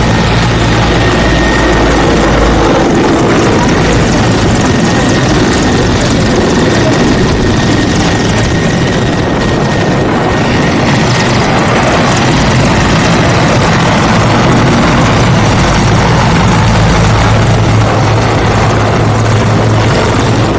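Helicopter's rotor and turbine engine running loud and steady, with a thin high whine over the rotor noise.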